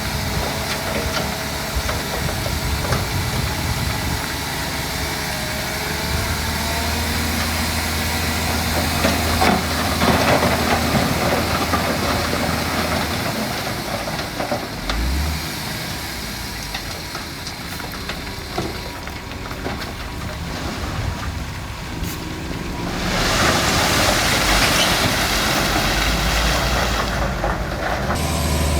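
Diesel engines of heavy earthmoving machinery running, a low hum under a hissing noise. About two-thirds of the way through, a louder rushing noise comes in and lasts about five seconds.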